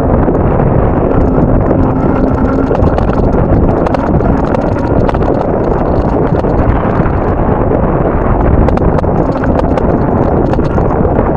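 Strong wind buffeting the microphone, a loud steady rumble, with many irregular sharp clicks and crunches over it.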